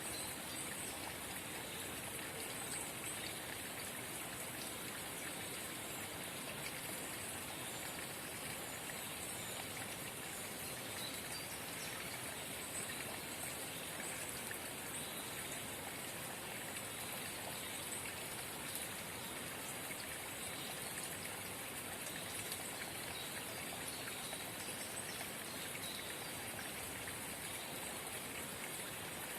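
A forest spring babbling steadily: a continuous trickle of running water.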